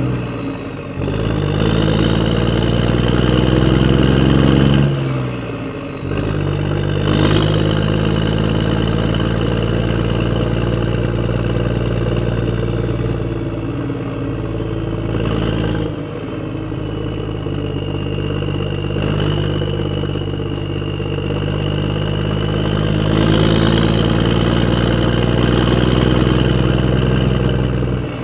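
Radio-controlled off-road truck running: a steady, engine-like hum under a high motor whine that rises and falls with the throttle, changing abruptly a few times.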